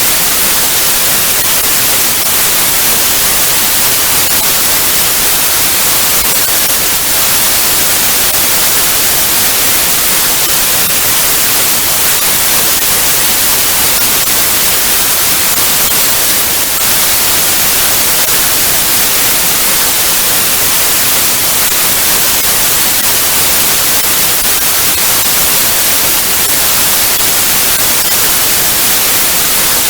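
Analogue TV static: steady, loud hiss with the most energy in the highest frequencies.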